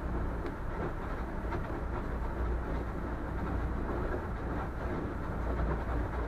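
A boat's engine runs with a steady low hum while ice scrapes and grinds along the hull, with a few faint cracks and knocks.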